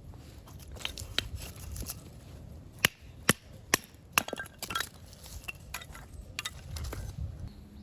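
Hard objects knocking and clinking together as they are handled: a run of sharp clicks, the loudest four about half a second apart in the middle, some with a short ringing tone after them.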